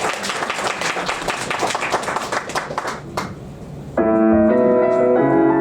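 Audience clapping that dies away, then about four seconds in a piano intro to the next song starts, with clear, steady notes.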